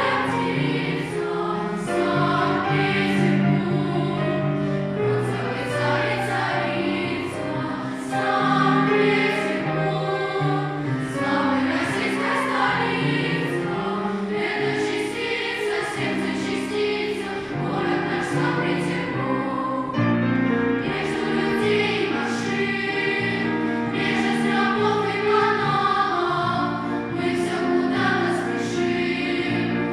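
Choir singing a song in held, sustained chords, with a new phrase coming in sharply about two-thirds of the way through.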